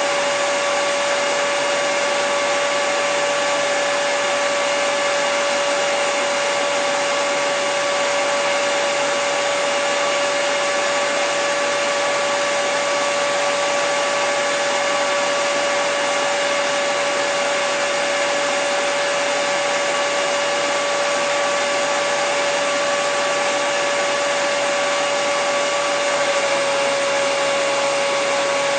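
Electric hair dryer running steadily: a constant rush of blown air with a steady motor whine.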